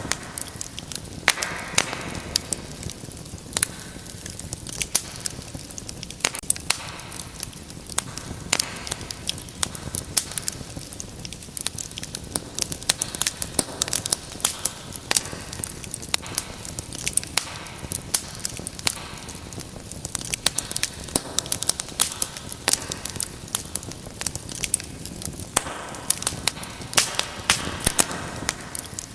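Wood fire burning in a fireplace, crackling and popping irregularly over a soft steady hiss, with short hissing swells now and then.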